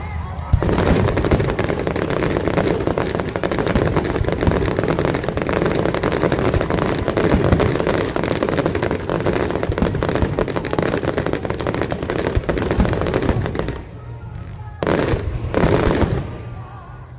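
Aerial fireworks crackling: a dense, rapid run of pops and crackles for about thirteen seconds, then it drops away and two separate bursts go off near the end.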